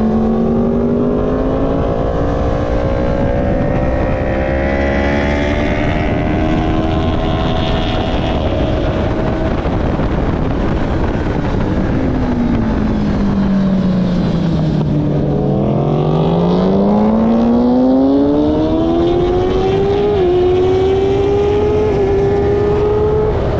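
Sport motorcycle engine at track speed, heard onboard over wind noise: its pitch climbs slowly at first, sweeps down as the bike slows about halfway through, then climbs again hard with a couple of small steps near the end.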